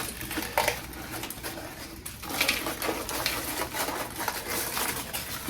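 Aluminium foil crinkling and crackling as it is unwrapped and peeled off a freshly cast grout rock face, in irregular handling bursts.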